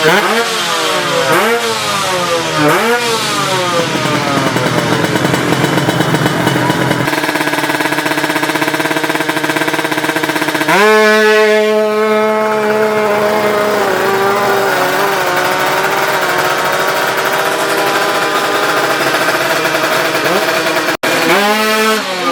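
Tuned two-stroke Kawasaki Ninja 155 drag-bike engines revving hard. In the first few seconds the pitch climbs and drops repeatedly in quick succession. About eleven seconds in a loud, high-revving engine cuts in and its pitch sinks slowly, with a brief cut near the end.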